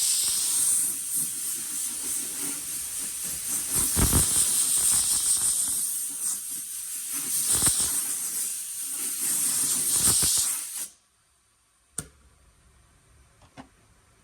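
Black guide coat being sprayed onto bare sheet metal: a loud, steady hiss that swells and eases over several passes, with a few low knocks, then cuts off suddenly about eleven seconds in. A sharp click follows about a second later. The guide coat is the layer that shows up low spots in the panel when it is sanded.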